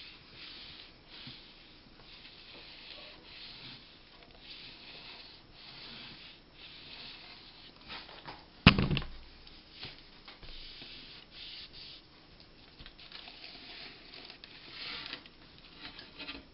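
Quiet rubbing and handling noises as materials are worked by hand, with one sharp knock about halfway through.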